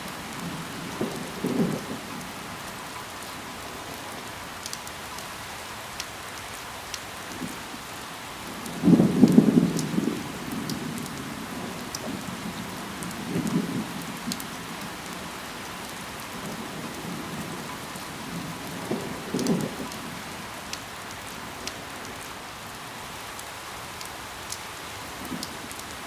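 Steady rain falling on leaves, with scattered individual drop hits. Four brief low rumbles swell up and fade, the loudest about nine seconds in.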